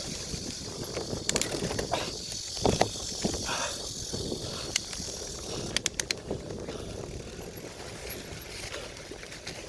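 Mountain bike riding over a rough forest trail: a steady rumble of tyres on dirt and stones, with sharp clicks and rattles from the bike every second or so.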